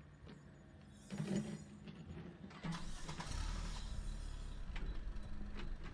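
Small mechanism clicking and rattling, joined by a steady low hum from a little before halfway.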